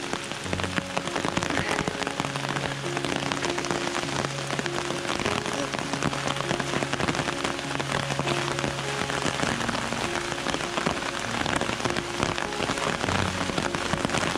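Heavy rain pouring down steadily: a dense hiss of countless close drop hits.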